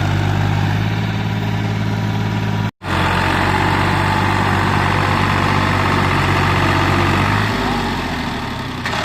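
Ghazi 65 hp tractor's diesel engine running steadily. It drops out completely for a moment a little under three seconds in, and its low note eases off near the end.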